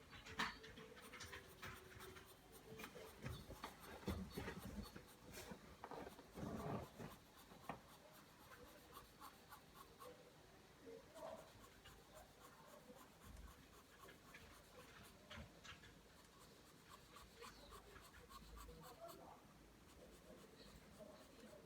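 Pencil drawing lines on paper: a run of short scratching strokes, denser and louder in the first several seconds, then lighter and sparser.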